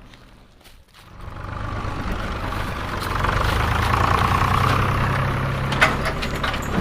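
A vehicle's motor starts up about a second in and runs steadily, with a whine that grows louder around three seconds in; a sharp click sounds near the end.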